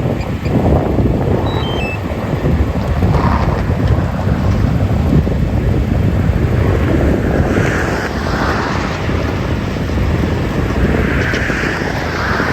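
Strong wind buffeting the microphone: a loud, steady, uneven rumble with no clear tone.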